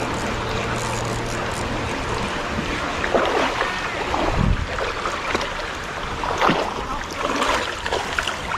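Shallow creek water running steadily, with several sharp splashes from about three seconds in, typical of a hooked fish thrashing at the surface. A low steady hum stops about two seconds in.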